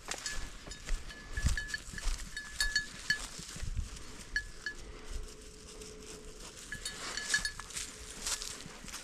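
A small bell jingling in quick, irregular runs of rings, the kind worn on a hunting dog's collar, with rustling and footfalls through field cover.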